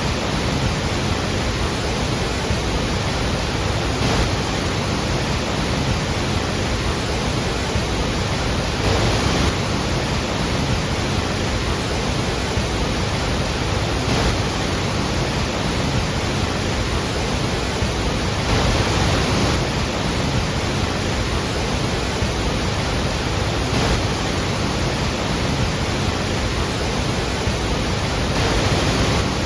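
Iguazu Falls: a large waterfall's falling water making a loud, steady, even rush of noise that does not change.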